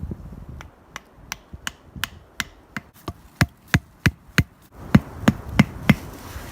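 Tent pegs being hammered into the ground: a rapid run of sharp blows, about three a second, the last few the loudest. Wind noise rises about five seconds in.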